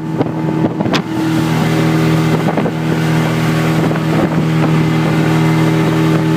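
1971 Johnson 85 hp Sea-Horse V4 two-stroke outboard running steadily with the boat under way, with a sharp knock about a second in.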